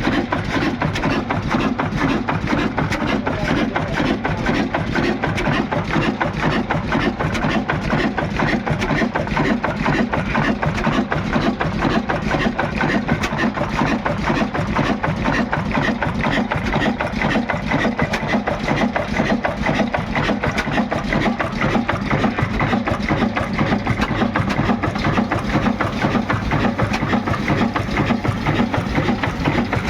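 Old Ruston Hornsby diesel engine running steadily with a fast, even beat.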